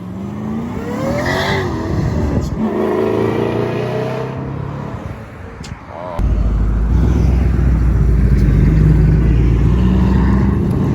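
Car engines revving, the pitch rising and falling, then about six seconds in a much louder, deep steady engine rumble starts abruptly.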